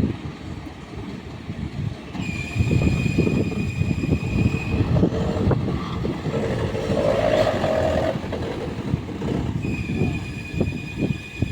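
Dump truck's engine and hydraulic tipping hoist working under load, with a steady high whine that comes in about two seconds in, drops out, and returns near the end, over heavy rumbling and clattering.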